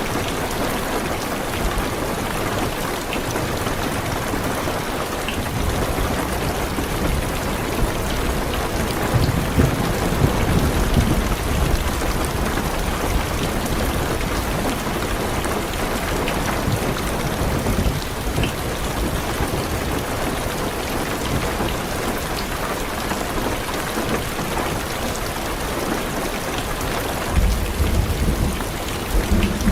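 Heavy rain drumming steadily on a car's roof and windows, heard from inside the car. A low thunder rumble builds from about six seconds in, and another comes near the end.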